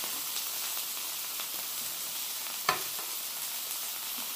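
Fried rice and a ribeye steak sizzling steadily on a hot flat griddle, with the rice being stirred around. One sharp knock comes about two and a half seconds in.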